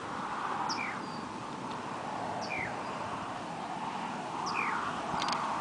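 A bird calls a short falling note three times, about two seconds apart, over a steady hiss.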